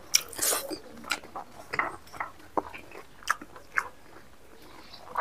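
Close-up mouth sounds of a man eating with his fingers: chewing, biting and lip smacks, a string of short, irregular wet clicks and small crunches.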